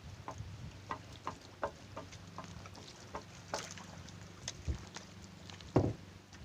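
Scattered knocks and taps on a small wooden fishing boat over a steady low hum, with a heavy thump near the end as the loudest sound.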